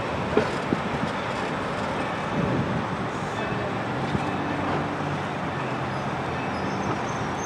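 Passenger train cars rolling slowly past, a steady rumble of steel wheels on the rails, with a couple of sharp clanks about half a second in.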